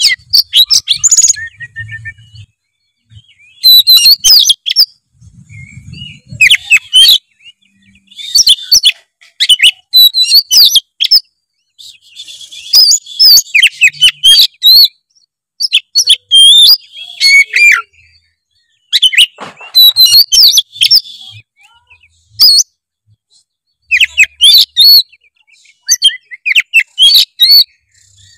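Oriental magpie-robin (kacer) singing in a string of loud, rapid phrases of varied chirps, whistles and trills, with short pauses between them. This is a full, mimicry-rich song of a bird in top singing form.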